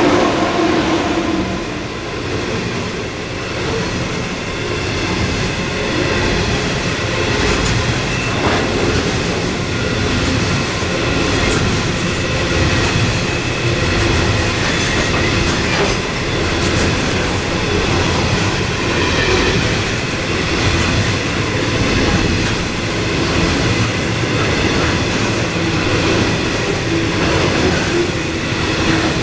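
Loaded coal hopper wagons of a long electric coal train rolling steadily past: wheels rumbling and clacking over the rails, with faint steady high squealing tones. In the first second or two the whine of the electric locomotive that has just passed fades away.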